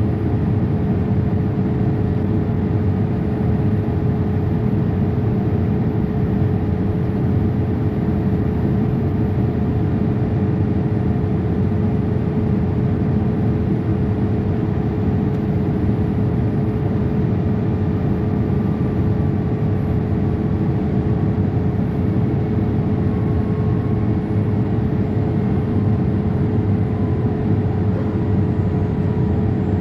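Boeing 787-8 cabin noise in flight: a steady low rush of airflow and engine noise, with a constant hum-like tone running through it.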